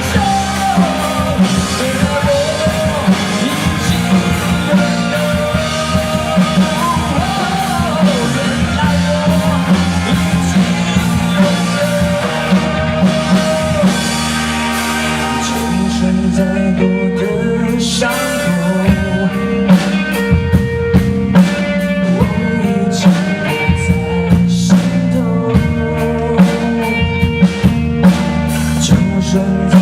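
Live rock band playing: a singer's voice over electric guitar, bass and drum kit. About halfway through the vocal line stops and the band plays on instrumentally with a steady drum beat.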